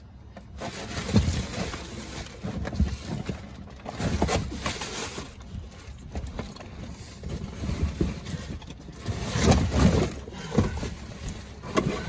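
Rummaging through discarded boxes and bags in a dumpster: irregular rustling, crinkling and dull knocks as items are shifted and handled, with low rumbling bumps, starting about half a second in.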